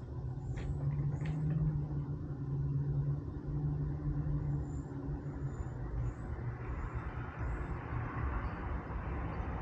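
A motor vehicle's low engine hum, with a rush of road noise building in the second half.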